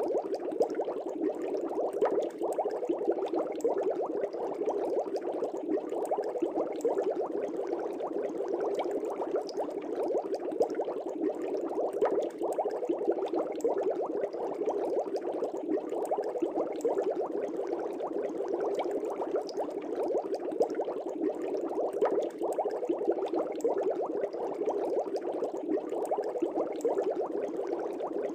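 Air bubbles rising and popping in an aquarium fish tank: a steady, dense bubbling made of many tiny pops.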